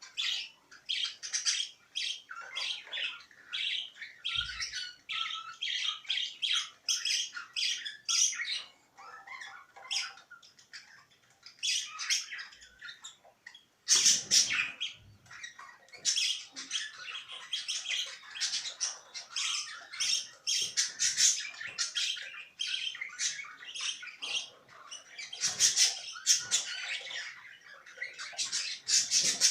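Budgerigars chattering and warbling, a dense run of fast chirps and squawks with barely a pause. A couple of brief knocks come about halfway through.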